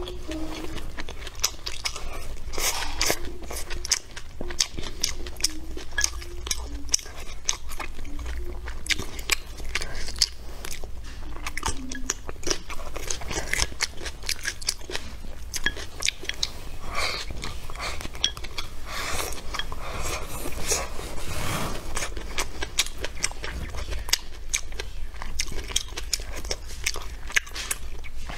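Close-miked chewing and crunching of rice with stir-fried celery and pork, a dense run of small wet mouth clicks and crunches that goes on without pause.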